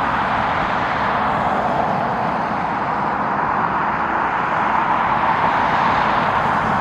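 Jet airliner engines making a loud, steady rush, swelling slightly about five seconds in.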